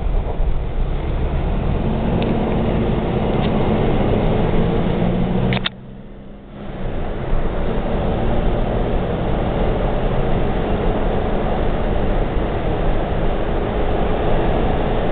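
Engine and road noise heard from inside a moving car, steady, with a few light clicks. About five and a half seconds in, the noise drops sharply for about a second, then comes back.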